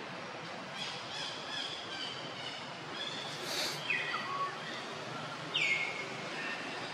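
Birds chirping over a steady background hiss: a few short high calls, one falling in pitch about four seconds in, and a sharper downward-sweeping call near six seconds.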